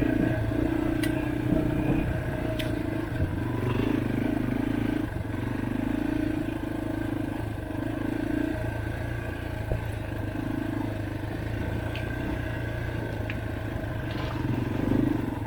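Dirt bike engine running on a rough trail, its note rising and falling every second or two as the throttle is worked, with scattered clicks and knocks from the bike jolting over rocks.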